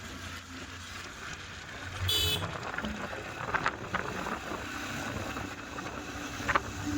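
Wind rush and road rumble from riding a motorcycle on a hill road. A short high-pitched sound with several even tones comes about two seconds in, and a few sharp clicks follow.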